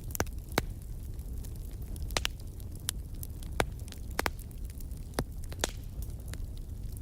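Fireplace fire crackling: sharp pops at irregular moments, roughly one or two a second, over a steady low rumble.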